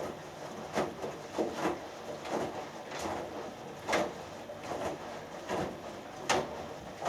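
Hoover Dynamic Next front-loading washing machine in its rinse, the drum tumbling wet laundry through the rinse water: irregular swishes and flops, about one a second.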